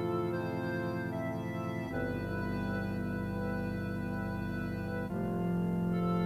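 Music: sustained organ chords, moving to a new chord about two seconds in and again about five seconds in, with a slow pulsing in the low notes.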